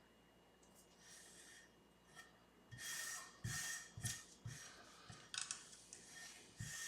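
Sandpaper on a levelling beam rubbing along the frets of a Squier Strat SE during fret levelling. There are about six short sanding strokes of uneven spacing, with light knocks as the beam touches down.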